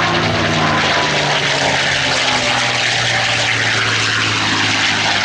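A propeller-driven WWII fighter's piston engine droning loudly and steadily as the plane flies by, its pitch sinking slowly.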